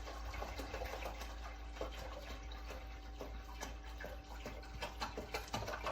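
Water pouring from a gallon jug into a humidifier's plastic water tank, a steady splashing with small clicks and drips.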